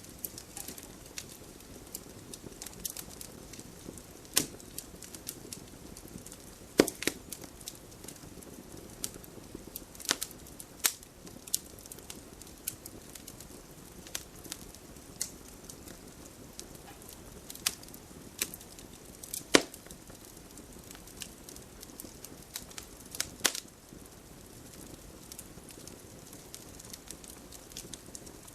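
Wood fire crackling in a fireplace: irregular snaps and pops over a low steady hiss, with a handful of louder pops scattered through.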